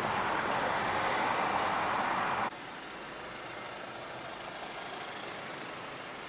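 Steady road noise inside a moving car's cabin, cutting off abruptly about two and a half seconds in to a quieter, steady background hum.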